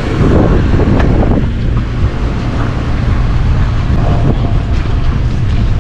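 Wind buffeting the microphone: a loud, steady low rumble with a rough hiss above it.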